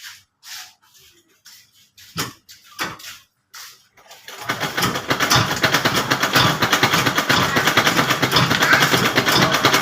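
Sewing machine making a few separate clicks and knocks, then from about four seconds in running fast and steady with a rapid ticking rhythm.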